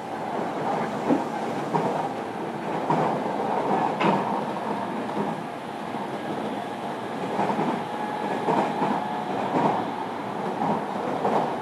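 Running noise of a JR Kyushu 305 series electric train at speed, heard inside motor car MoHa 305-101. A steady rumble of wheels on rail, with scattered clicks and knocks as the wheels pass over the track.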